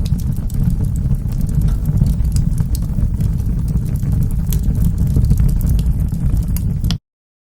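Wood fire burning in a fireplace: a steady low rumble of the flames with scattered sharp crackles and pops. Near the end the sound cuts off suddenly to silence.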